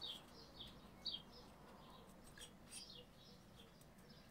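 Faint, repeated short chirps of a small bird, several a second, with a few faint snips of small scissors cutting through cardstock.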